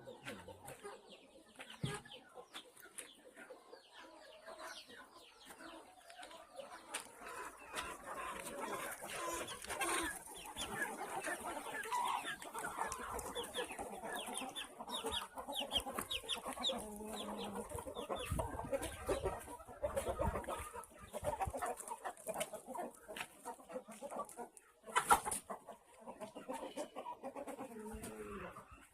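A flock of chickens clucking, many calls overlapping, sparse at first and busier after several seconds. One sharp knock comes near the end.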